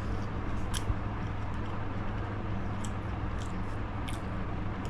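A person chewing food, with a few short wet mouth clicks, over a steady low hum.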